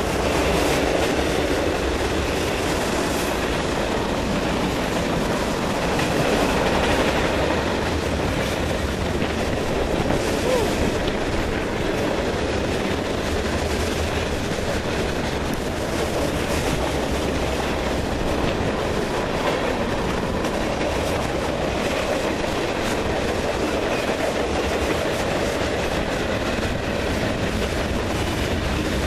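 A freight train of mixed boxcars, covered hoppers and tank cars rolling steadily past on steel wheels, the noise of wheels on rail holding even throughout.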